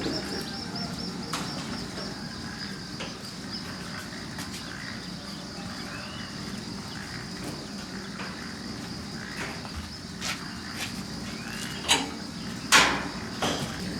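Outdoor rural ambience: a steady, high insect drone with a few short bird chirps, broken by several sharp knocks, the loudest two near the end.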